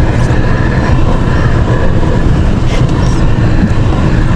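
Vehicle driving, a steady low road rumble.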